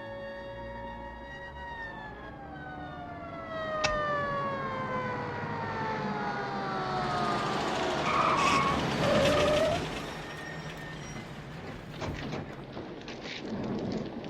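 Police car siren rising briefly, then winding down in pitch over several seconds as the cars pull up. A short squeal follows, then car noise with a few knocks.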